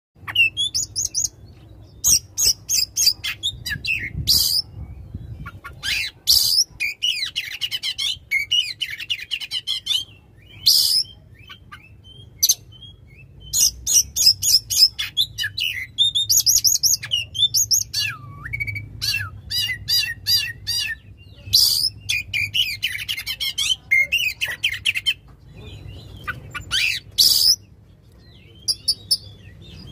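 Oriental magpie-robin (kacer) singing loudly in full song: varied phrases of clear whistles, rapid trills and harsh chattering notes, delivered in bursts a second or two long with short pauses between them.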